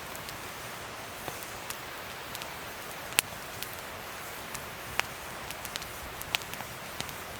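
Wood fire crackling: a steady hiss with irregular sharp pops, the loudest about three seconds in and again at five seconds.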